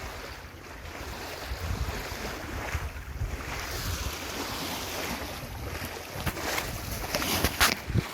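Wind buffeting the microphone over water rushing and splashing along a sailboat's hull under sail, with a few sharper splashes near the end.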